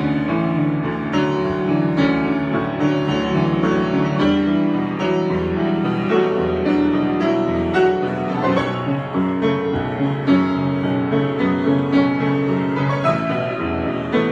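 Piano improvisation: chords and melodic lines played continuously, with notes ringing over one another.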